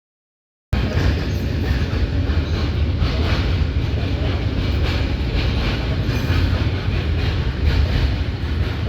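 Train running past on the rails: a loud, steady low rumble with irregular clatter of wheels over the track. It starts abruptly under a second in.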